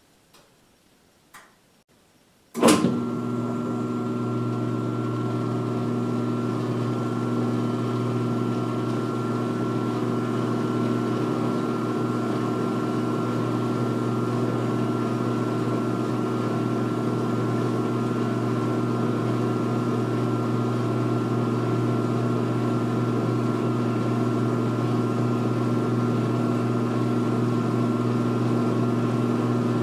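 2016 Speed Queen top-load washer starting its spin and drain. After a couple of faint clicks, the motor and drain pump switch on suddenly about two and a half seconds in and run with a steady hum, building slightly as the tub spins up.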